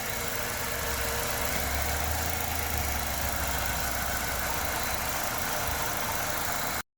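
LPG car engine idling smoothly now that a poor contact in two field wires has been fixed: the rough idle is gone. It cuts off suddenly near the end.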